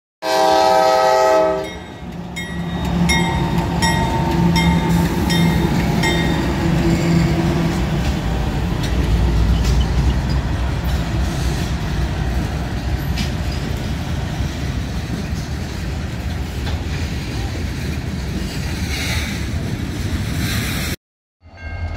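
A locomotive horn sounds one short chord at the start, then a bell rings steadily, about two strikes a second, for several seconds while the train rumbles and clatters past on the rails.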